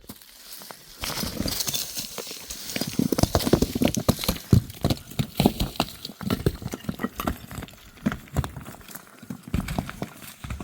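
Irregular steps crunching and knocking over stony ground, starting about a second in and going on steadily, with many scuffs and knocks.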